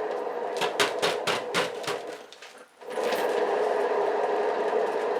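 Motorised canvas spinner running with a steady hum, with a run of sharp clicks in the first two seconds; it cuts out a little after two seconds and starts up again under a second later.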